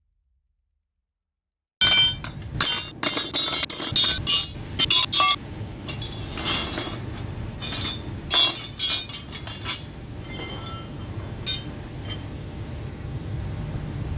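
Near silence for about two seconds, then a run of irregular, sharp clinks and knocks over a steady low hum; the clinks come thickest at first and thin out toward the end.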